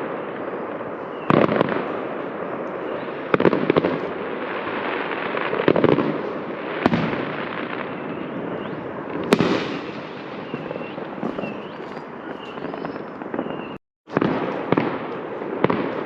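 Many fireworks going off at once: a continuous crackle and rumble with sharp bangs every second or two. The sound cuts out for a moment near the end, then the bangs carry on.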